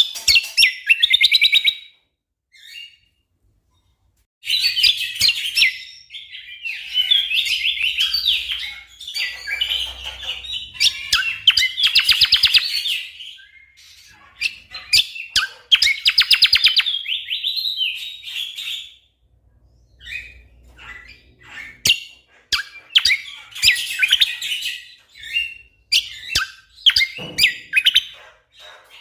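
Cucak kombo songbird singing in loud bursts of fast, dense trilled phrases, with sharp single chip notes between them and a pause of a couple of seconds near the start.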